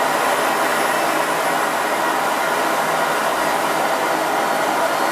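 Miele S8730 (C3 Complete) cylinder vacuum cleaner running steadily at medium power: an even suction rush with a faint high motor whine.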